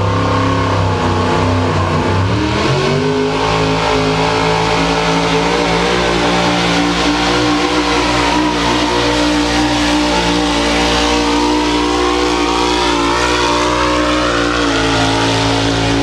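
Pulling truck's engine at full throttle hauling a pulling sled: it climbs from low revs to high revs about two and a half seconds in and holds there, with small dips, for the rest of the run.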